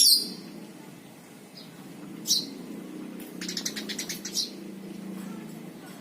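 Lovebirds calling: a sharp, shrill falling chirp at the start and another about two seconds in, then a rapid stuttering chatter of about ten notes a second lasting about a second, the start of the lovebird's 'ngekek' trill. A steady low hum runs underneath.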